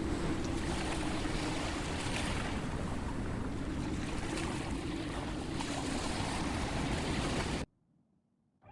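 Surf washing onto a beach mixed with wind on the microphone, a steady rushing noise that cuts off abruptly near the end.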